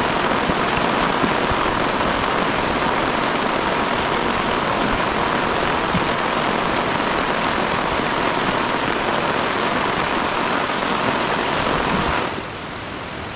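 Heavy rain falling in a steady, dense hiss. About twelve seconds in it abruptly becomes quieter and duller.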